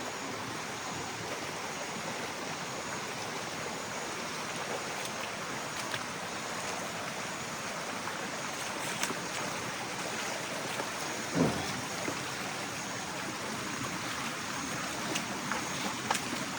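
Steady rushing of stream water, with one short bump about eleven seconds in and a few faint clicks.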